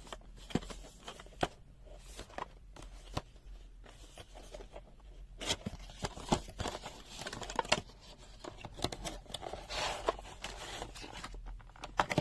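A boxed multimeter being unpacked by hand: rustling and crinkling of paper and plastic packaging with many small clicks and taps as the box and its contents are handled.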